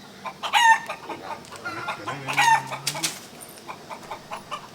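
A chicken calling: three short, high-pitched calls spaced about two seconds apart.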